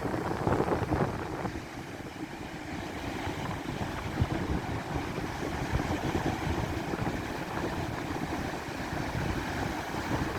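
Strong wind buffeting the microphone over the rush of a stormy sea's surf, with a brief thump about four seconds in.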